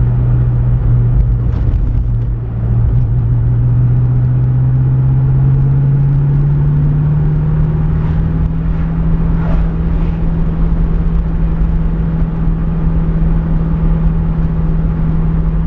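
Pontiac Firebird engine running hard at cruising speed, with road rumble. The engine note climbs over the first few seconds after a brief dip, then holds steady at high revs. The car lacks a fourth gear, so it revs high at speed.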